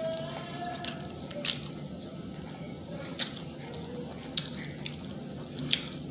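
Chewing and eating chicken wings: wet mouth and lip smacks with about five sharp, crisp clicks spread through.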